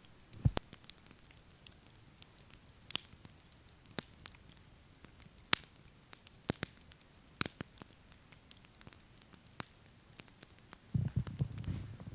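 Wood campfire crackling, with irregular sharp snaps and pops and a louder low knock about half a second in. A short low rumble comes near the end.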